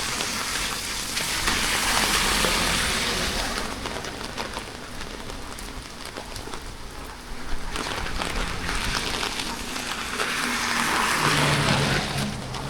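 Rain falling, a steady hiss that swells louder twice: from about a second in, and again in the last few seconds.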